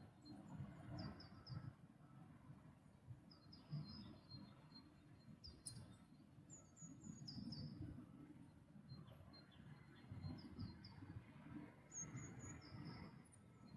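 Small songbirds singing faintly: short, high notes in quick runs of three or four, repeated every second or two, over a low steady rumble.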